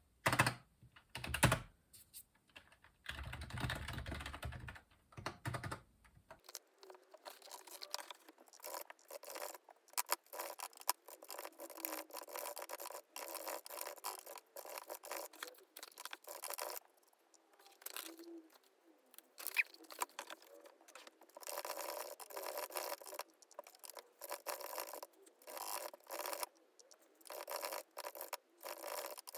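Two sharp knocks in the first seconds, then a continuous stream of rapid small clicks, taps and scratches from hands working at a desk.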